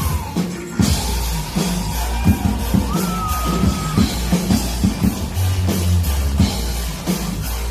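Drum kit played over a rock backing track: kick, snare and cymbal hits on a steady beat, coming back in hard just under a second in after a brief dip.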